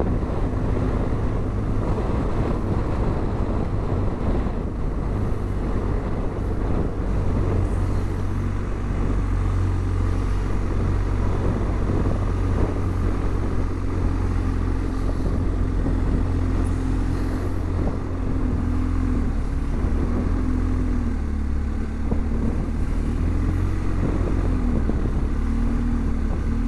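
BMW R 1250 GS boxer-twin motorcycle engine running on the move, a steady low rumble throughout. Its note wavers up and down a little in the last third.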